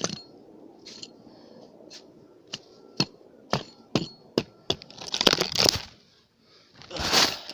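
Axe striking wood in a run of sharp cracks about two a second, chopping kindling for a campfire, followed by two longer, louder crunching rustles.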